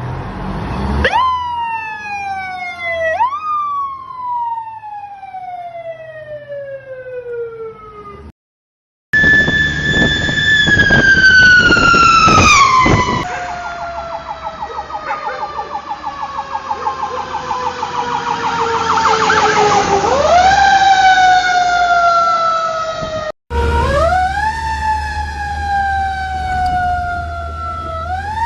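Fire truck sirens wailing, each cycle sweeping up quickly and falling away slowly. In the middle, a second siren pulses rapidly alongside the wail, over the low hum of the truck's engine.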